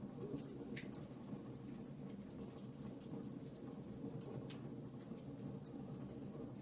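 Wood fire crackling in a fireplace: many small sharp pops and snaps, several a second, over a low steady rush of the burning flames.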